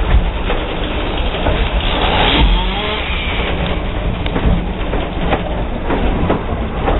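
Passenger train rolling along the track: a steady rumble and rattle with sharp clicks as the wheels pass over rail joints, and a brief louder, higher-pitched stretch about two seconds in.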